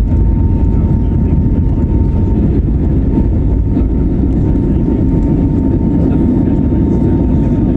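Steady jet engine and airflow noise heard inside the cabin of an Airbus A320neo with CFM LEAP-1A26 engines, a deep even rush with a thin steady whine above it.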